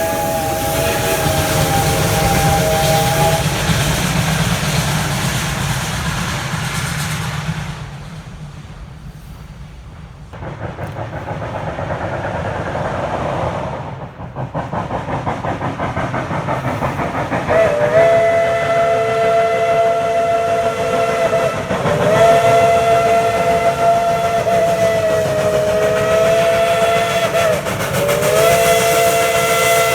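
Steam locomotive's chime whistle sounding a chord of several tones. A blast ends about three seconds in, followed by a stretch of steam hiss and train noise. From about eighteen seconds in come long whistle blasts, broken twice by short gaps.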